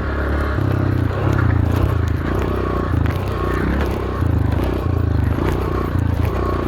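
Dirt bike engine with the throttle opening and closing about once a second, its pitch stepping up and down as the bike rides through a run of whoops.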